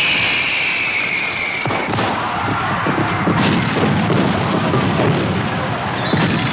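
Fireworks: a whistle falling in pitch ends in a sharp bang about two seconds in. A few seconds of crackling bursts and low rumble follow.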